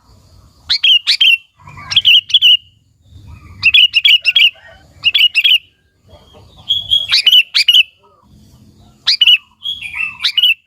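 Sooty-headed bulbul singing: about seven short, quick phrases of two to four notes each, repeated every second or so.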